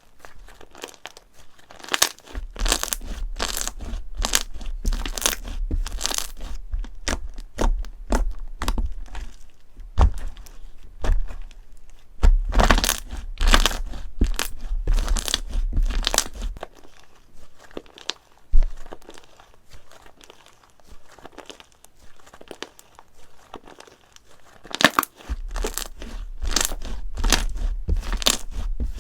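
Slime being squeezed and pressed by hand, giving runs of crackles and pops over a low squishing rumble. It comes in two busy spells, with a quieter stretch of scattered crackles in the middle.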